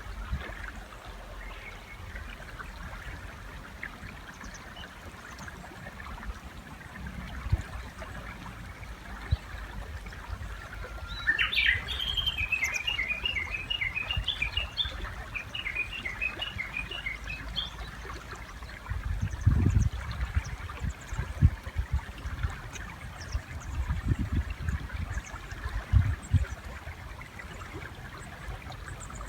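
Japanese bush warbler singing once over a steady stream trickle: a short low note about eleven seconds in, then a quick run of repeated chirping notes lasting about six seconds. Several low thumps come in the second half and are louder than the bird.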